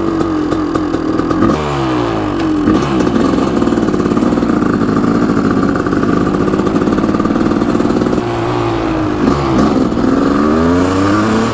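Kawasaki KX500 single-cylinder two-stroke engine idling at a stop, with a couple of quick throttle blips a couple of seconds in. Near the end it pulls away, the revs rising repeatedly as it shifts up through the gears.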